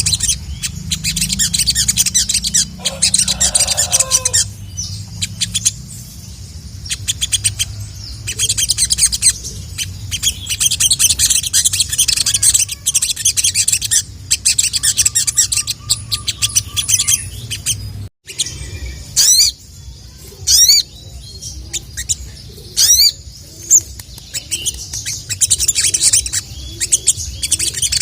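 Male sogon (sogok ontong) singing fast, high chattering trills, the 'gacor' song used to call out a rival male; after a short break about two-thirds of the way through, several quick rising whistles come in among the trills. A low steady hum sits underneath until the break.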